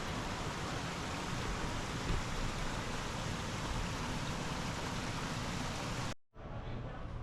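Steady, even rushing noise with no rhythm or tones, like rain, running water or wind; it cuts off abruptly about six seconds in, and a quieter passage with steady held tones, likely music, begins.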